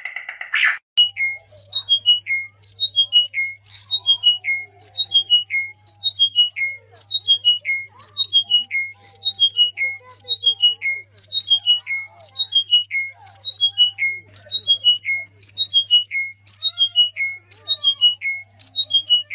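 Parrot repeating the same short whistled call over and over, each one stepping down in pitch, about one and a half calls a second, with a faint steady low hum underneath.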